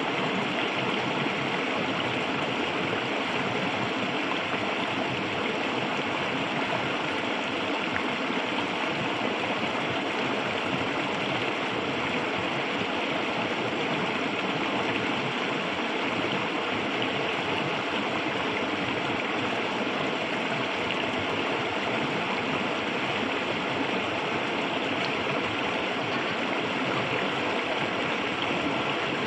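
Clear river water flowing steadily, an even, unbroken sound of running water.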